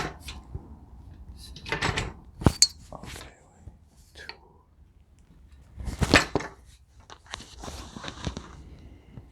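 Metal table-saw parts and hardware being handled: a few sharp clanks and knocks in bursts, with quieter gaps between.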